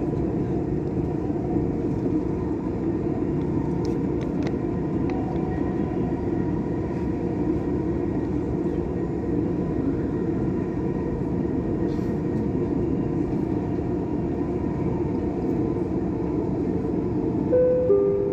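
Dubai Metro train running steadily between stations, a continuous rumble of wheels and motors heard from inside the carriage. A few short chime notes sound near the end.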